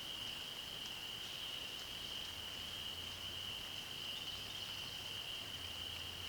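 Outdoor nature ambience: a steady, unbroken high-pitched trill from a calling chorus of small animals, over a faint hiss, with a faint low hum coming in about halfway through.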